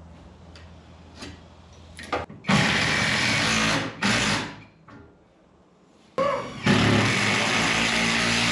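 A power tool runs in two short bursts, the first about a second long, the way a drill drives screws into framing. About six seconds in, background music with guitar starts and carries on.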